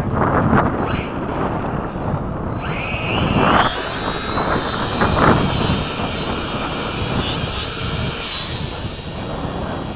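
Electric motors of a small radio-controlled B-17 model in flight, a high whine that wavers in pitch as it passes, coming in a few seconds in and fading near the end. Wind buffets the microphone in gusts.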